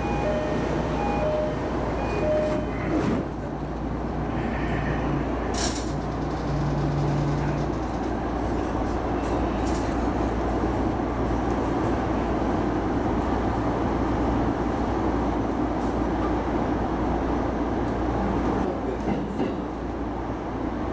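Electric commuter train running on the line: a steady rumble of wheels on rail and running gear, with a couple of sharp clunks a few seconds in. An intermittent beeping tone sounds over it in the first couple of seconds.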